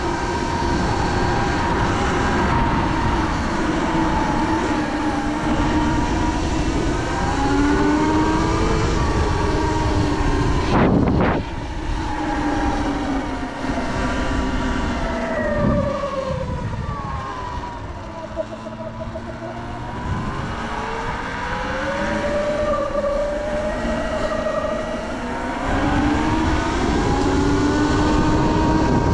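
Sur Ron electric dirt bike's motor whining as it rides. The pitch falls as it slows about two-thirds of the way through, then climbs again as it speeds back up, over a low rushing wind noise.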